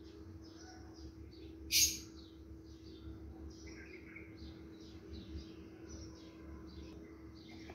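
Short high chirps, like small birds calling, repeating two or three times a second over a steady hum. About two seconds in, one sharp scrape stands out, plausibly the steel spatula striking the pot.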